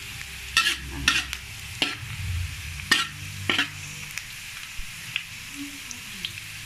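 Sliced garlic, ginger and shallots sizzling in oil in a metal wok, fried to golden. A metal spatula stirs them, scraping and knocking against the wok several times.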